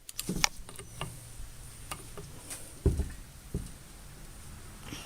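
Scattered light clicks and knocks of parts or tools being handled during vise reassembly, the loudest knock about three seconds in.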